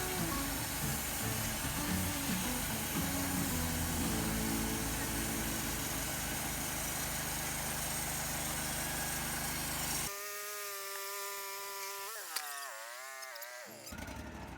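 Wood-Mizer LT40 portable band sawmill running, with background music. About ten seconds in, the low sound drops away abruptly and a pitched tone holds, then wavers up and down, before the machine noise returns near the end.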